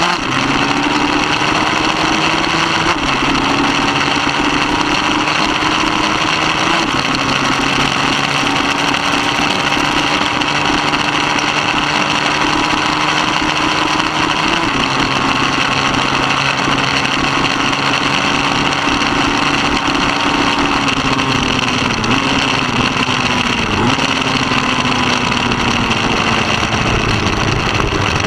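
Middleweight superbike engine running hard at high revs under racing, its pitch holding fairly level with small steps at gear changes and a couple of dips near the end, over a steady rush of wind noise.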